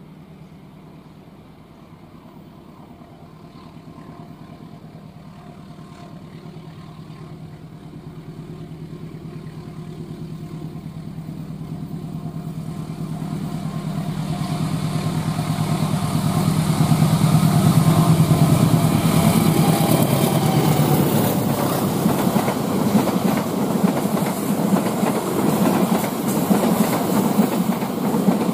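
Diesel locomotive hauling a passenger train, its engine running with a steady low drone that grows louder as the train approaches. From about halfway in, the rush and clatter of the wheels on the rails builds up as the train passes close by.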